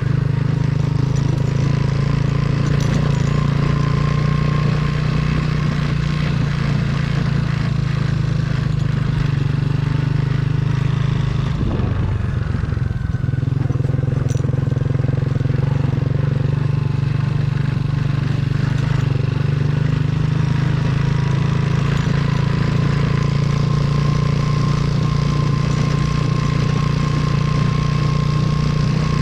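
Motorcycle engine running steadily under way, with a brief dip in its sound about twelve seconds in before it settles back to the same steady pitch.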